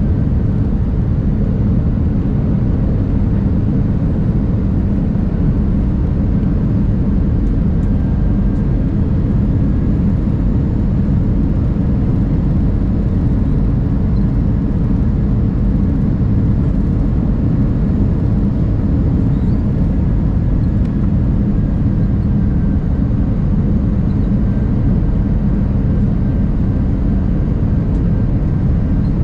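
Steady low rumble of engine and airflow noise heard inside the cabin of an Airbus A319 airliner, even and unchanging throughout.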